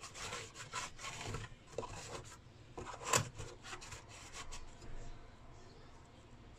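Irregular rubbing and scraping strokes as soot is cleaned off the inside of a burnt, explosion-blackened inverter, with one louder scrape about three seconds in.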